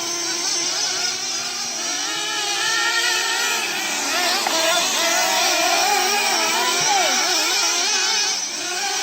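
Several sprint car engines running together, their pitches rising and falling as the cars lap the track.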